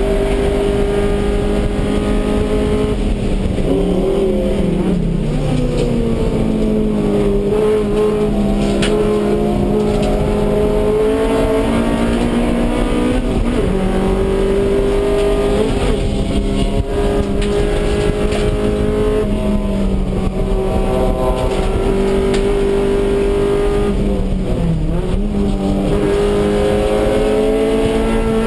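Race-prepared Honda Civic EG's stock B18C5 1.8-litre DOHC VTEC four-cylinder engine at racing speed, heard from inside the stripped cabin. The engine note climbs slowly and falls back about four times.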